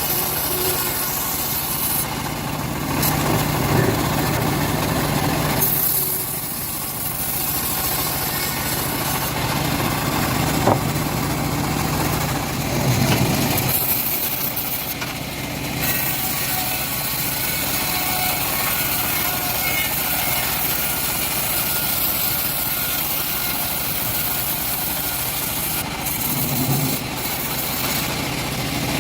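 Engine of a homemade bandsaw sawmill running steadily as its blade saws through a teak log, with a few swells in the engine note.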